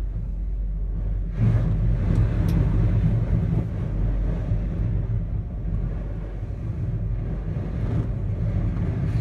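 Steady low rumble inside a gondola cabin riding its cable in high wind, swelling louder about a second and a half in.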